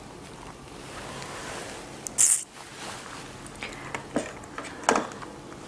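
Close-miked mouth sounds of chewing a Vietnamese fresh spring roll in rice paper. There is a short hissy burst a little after two seconds and a few soft clicks near the end.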